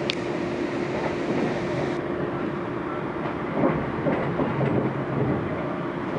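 Passenger train running, heard from inside the carriage: a steady rumble of wheels on rail with a constant hum, a sharp click right at the start and some louder rattling about halfway through.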